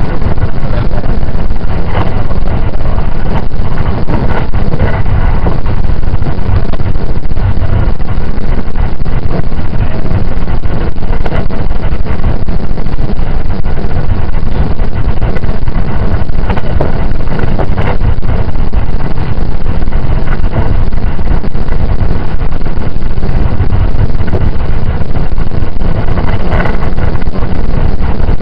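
Running noise heard inside the passenger car of a JR 681 series electric multiple-unit train at speed: a loud, steady rumble of wheels on rails, with a few faint clicks.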